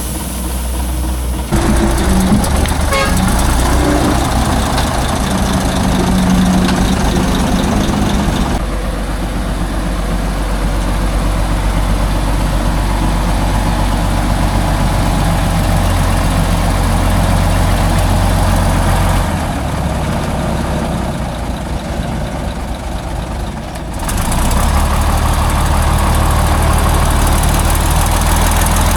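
Heavy logging truck's diesel engine running loud and steady in the mud, its note shifting a few times along the way.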